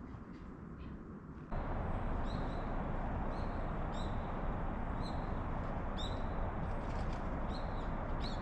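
Outdoor ambience: a steady rushing noise that jumps louder about a second and a half in, with a small bird chirping about once a second over it.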